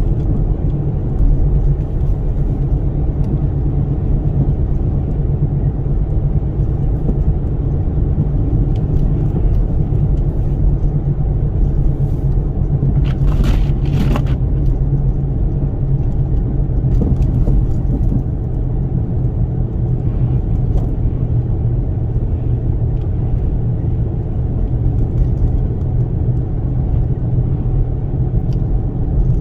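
Steady low rumble of a Toyota Sienna minivan driving slowly through a blizzard: road, engine and wind noise. Two brief sharp knocks come about halfway through.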